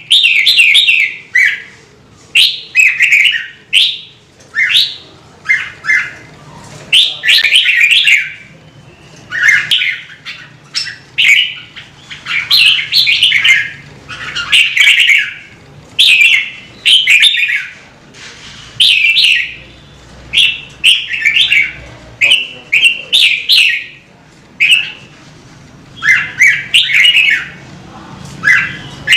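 Red-whiskered bulbul singing: loud, short warbled phrases, each about a second long, repeated one after another with brief pauses between them.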